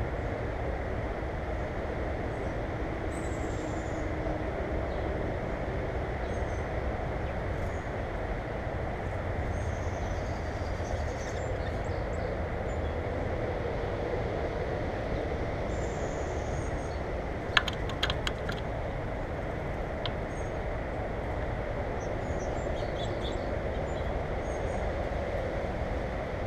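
A steady low rumbling noise runs underneath faint, short bird chirps that come now and then. A quick cluster of sharp clicks comes about 18 seconds in.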